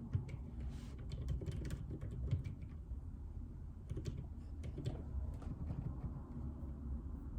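Typing on a JJK84 mechanical keyboard with Outemu Silent Peach linear switches: a run of keystrokes in the first couple of seconds, a short pause, then a second run about four seconds in. A low steady hum sits underneath.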